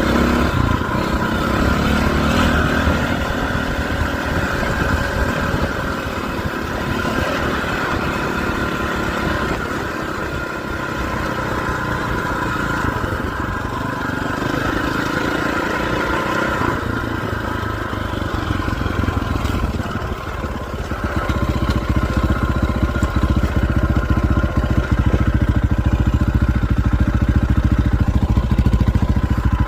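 Dirt bike engine running while being ridden off-road, its revs rising and falling. It gets louder and steadier about two-thirds of the way in.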